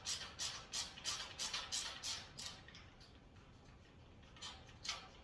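Hand ratchet tightening screws on a metal rack, clicking in a steady rhythm of about three strokes a second. It stops about halfway through, and two more clicks come near the end.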